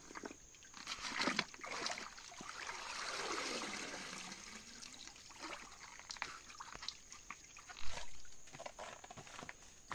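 Water splashing and trickling, with a longer swell of splashing a few seconds in and a low thump near the end, among scattered small knocks and clicks.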